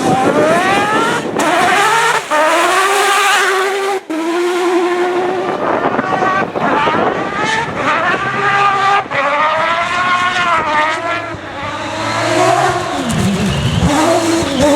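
Mazda rotary engine of a Peugeot 205 prototype rally car revving hard, its pitch climbing and dropping again and again as it accelerates and shifts, with a few sudden sharp breaks.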